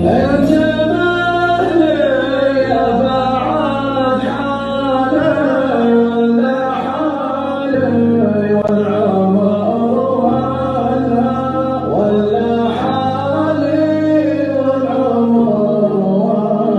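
Arabic song: a voice sings long, ornamented melodic lines over a steady low drone that shifts pitch every few seconds.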